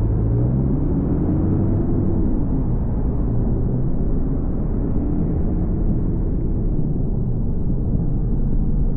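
Car driving: steady engine and road rumble, the engine note rising and then dropping off about two seconds in.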